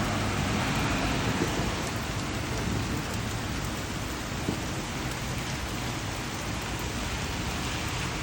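Steady rain falling, an even hiss with a few single drops tapping out above it.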